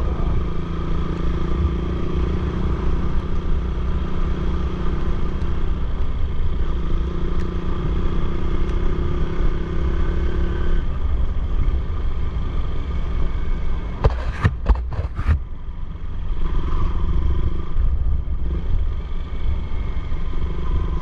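Motorcycle engine running steadily while riding, with a few sharp knocks about fourteen to fifteen seconds in.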